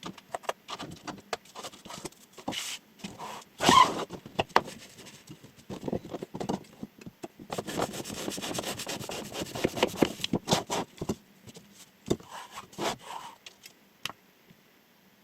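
Chef knife cutting test: an irregular run of short cuts, scrapes and knocks, densest about halfway through, with one sharp knock a few seconds in.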